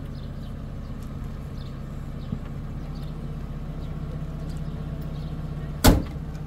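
A steady low engine-like hum, with one loud bang about six seconds in.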